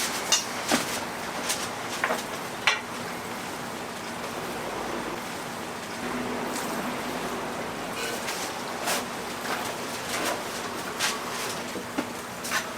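Hot oil sizzling steadily in a deep fryer of twisted doughnuts, with sharp metallic clicks of utensils here and there.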